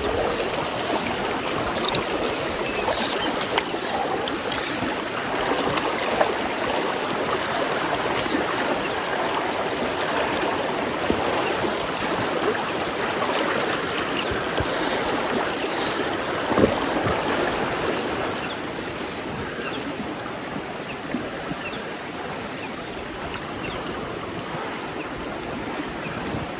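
Mountain stream running steadily, an even rush of flowing water, with a few short sharp clicks scattered over it. The rush eases a little about two-thirds of the way through.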